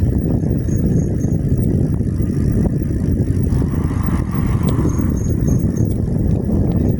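Wind buffeting the microphone and tyre noise from an e-bike riding along a street, a steady low rumble. Faint high ticking comes and goes twice, about four ticks a second.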